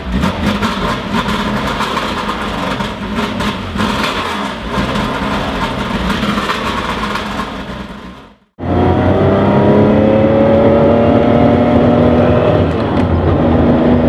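Classic Porsche 911's air-cooled 2.2-litre flat-six, breathing through a 904-style muffler, running unevenly just after it has fired up. The sound cuts off abruptly about eight and a half seconds in. Then the engine is heard under way, pulling steadily with its pitch rising slowly as the car gathers speed.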